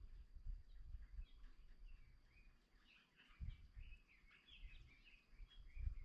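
Faint birds chirping in a busy string of short, overlapping notes, with a low rumble that comes and goes underneath.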